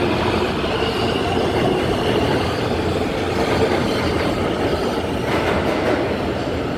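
New York City subway train moving through the station: a loud, steady rumble of steel wheels on rail with a faint squeal of tones above it.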